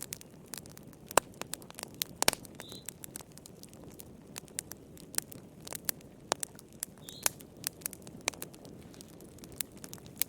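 Fireplace fire crackling: irregular sharp pops and snaps over a steady low rustle. Twice a short, faint high chirp sounds, about three seconds in and again near seven seconds.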